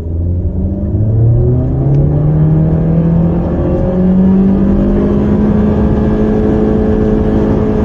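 10th-generation Honda Civic engine under full throttle, launched from standstill after brake-boosting, heard from inside the cabin. The engine note climbs in pitch over the first few seconds, then holds nearly steady while the car keeps gaining speed.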